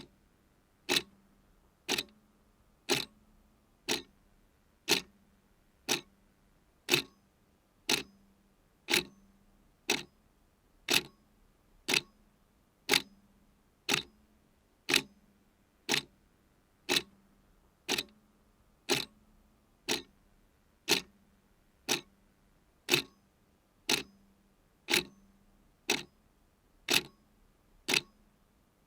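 Mechanical clock ticking steadily, one sharp tick a second.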